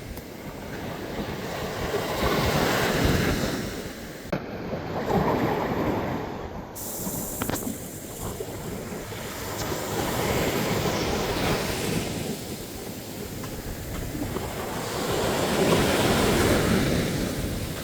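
Ocean waves breaking and washing on a sandy beach, swelling and ebbing in slow surges every few seconds, with some wind on the microphone.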